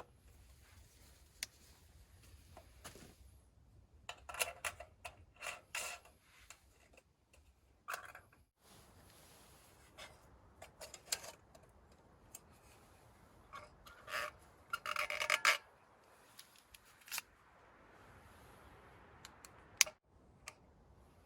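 Intermittent small handling sounds: short rubbing and scraping noises with scattered clicks, clustered around a few seconds in and again past the middle, with one sharp click near the end.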